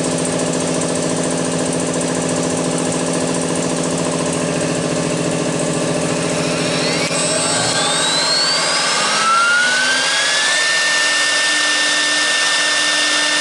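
A 6 kW air-cooled CNC router spindle running with a steady mechanical hum. Its whine rises in pitch from about halfway through as the spindle speeds up, then holds steady at a high pitch near the end.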